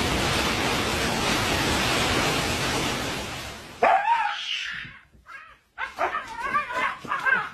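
A steady rushing noise fades out about three and a half seconds in. A dog then gives a short, high, whining cry, followed near the end by a run of quick yips.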